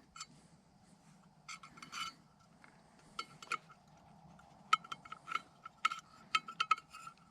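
Small metal carburetor parts clinking and tapping as they are handled and set down: a scattered run of light clicks, some with a brief metallic ring.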